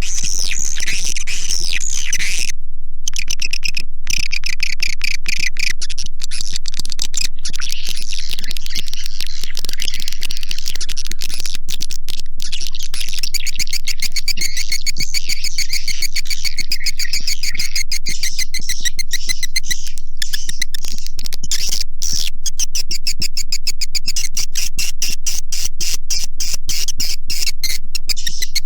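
Recorded swiftlet calls: a dense, continuous twittering of many rapid high chirps and clicks, with one brief break about two and a half seconds in. It is a swiftlet-farming lure call, played to draw edible-nest swiftlets into a bird house.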